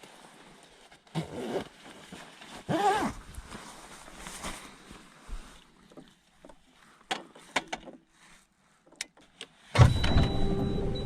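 Scattered clicks, rustles and one short wavering creak, like small objects being handled inside a car. Near the end a loud, steady hum with a low rumble and a thin high whine starts suddenly.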